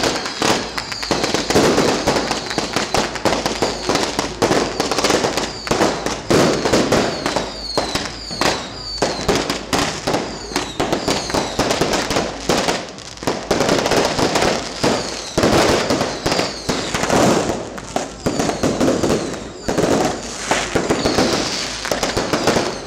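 Fireworks going off in a dense, continuous barrage of bangs and crackles, with short whistles among them.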